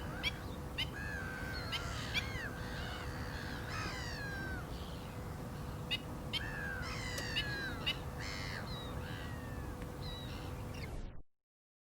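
Black-winged stilts calling: many short, sharp yelping notes mixed with drawn-out calls that fall in pitch. The sound cuts off abruptly near the end.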